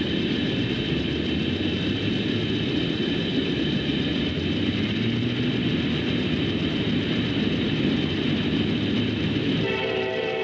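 A passing train, with a steady rumble and rolling rail noise and faint high steady tones above it. Near the end it cuts abruptly to a chord of steady tones.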